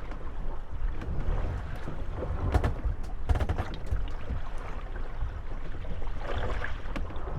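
Moored gondolas rocking on small waves, their hulls knocking and creaking against one another over a steady low wash of water and wind. A quick run of knocks comes about halfway through and a creak near the end.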